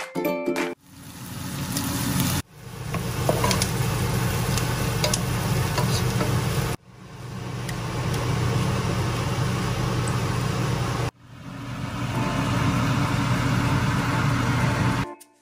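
Shrimp and vegetables sizzling in a pot on a gas stove, a steady hiss over a low rumble. It comes in several short clips that each fade in and break off suddenly.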